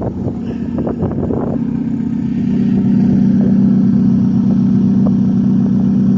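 Turbocharged car engine idling through an exhaust with a muffler in the turbo up-pipe. It runs a bit choppy for the first second and a half, then settles into a steady, even idle.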